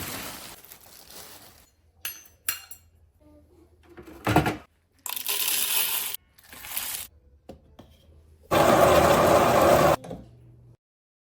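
Espresso machine and coffee-making sounds in quick succession: a few sharp clicks, a loud knock, short noisy bursts, then a loud steady mechanical noise lasting about a second and a half.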